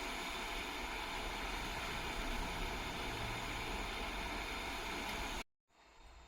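Narrow-gauge electric train running, a steady rumble and hiss with a faint hum. It cuts off sharply about five and a half seconds in, giving way to quiet outdoor ambience with insects.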